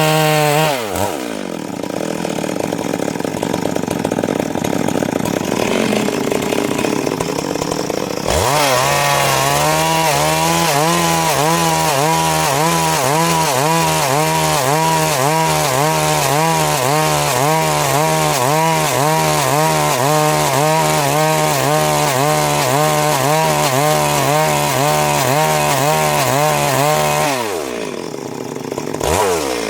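Stihl MS 382 two-stroke chainsaw ripping a Siris log lengthwise into boards. It drops to idle about a second in, throttles back up about eight seconds in and runs at full speed under cutting load, its pitch wavering, for nearly twenty seconds. Near the end it falls back to idle briefly and then picks up again.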